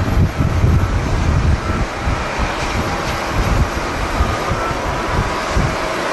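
Strong wind buffeting the microphone in irregular rumbling gusts, over a steady broad rushing noise.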